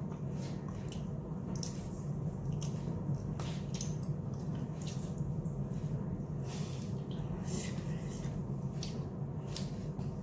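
Close-up eating sounds: wet chewing and lip smacks, irregular soft clicks, as saucy fried chicken is bitten off the bone, over a steady low hum.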